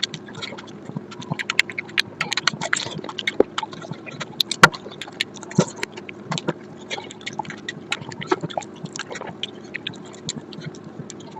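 Close-up eating sounds: a person chewing curry and rice, with irregular wet clicks and smacks and a sharper click about four and a half seconds in.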